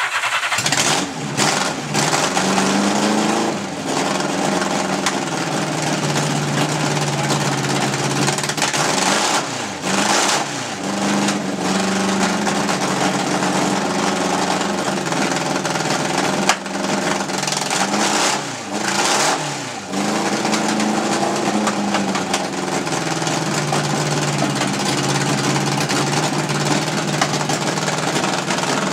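Motorcycle engine, back running after ten years of neglect, catching abruptly and then running loudly. The revs are brought down and back up several times, about 4, 10 and 19 seconds in.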